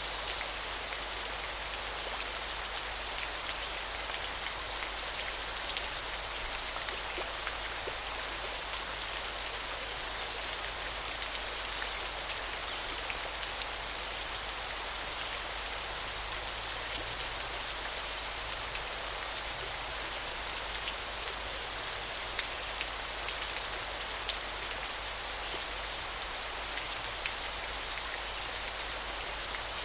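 River water flowing, a steady even rush. Over the first twelve seconds and again near the end, a thin, very high tone repeats in pulses of about a second and a half with short gaps.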